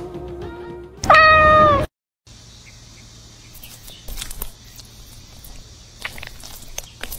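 Background music stops and a cat meows once, loudly and for under a second, its pitch dropping at the end. After a brief gap comes a quiet steady hiss with a few light clicks and taps.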